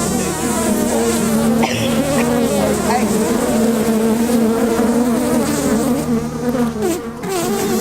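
Honeybees buzzing loudly up close, crawling in the microphone's fuzzy windscreen: several wavering buzz tones overlap, dipping briefly about seven seconds in.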